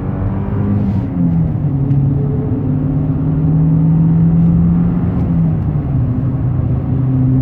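Alfa Romeo 159's 2.2 JTS four-cylinder petrol engine running on the road, its note dropping about a second in, climbing again, then dropping once more. It sounds nice and runs smoothly, with no misfire now that the coil has been changed.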